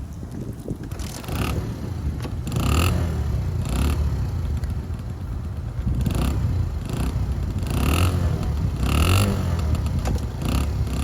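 Suzuki RB50 GAG minibike's small two-stroke single-cylinder engine running, its revs rising in short bursts again and again.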